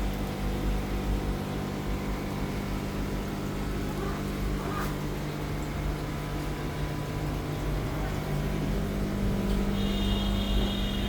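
A steady low mechanical hum over a low rumble, with a brief high-pitched tone near the end.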